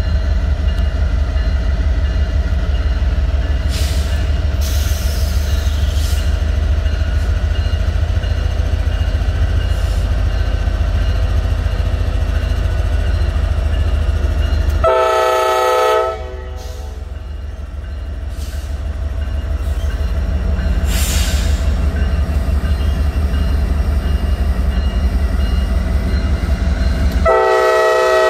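Norfolk Southern diesel freight locomotives pulling a mixed freight train away from the yard under power, with a loud, steady, deep engine rumble. The locomotive horn sounds a blast of about a second midway through and starts another near the end.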